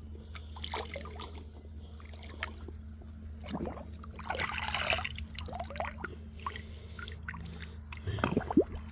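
Shallow creek water trickling and splashing, with a denser splashy stretch about halfway through.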